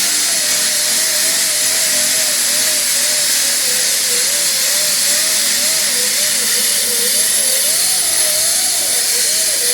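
Power sander with a 36-grit disc spinning at about 5,000 RPM, grinding old paint and bondo off a car body's steel panel. A steady hissing grind with a whine that wavers up and down as the disc is worked back and forth over the metal.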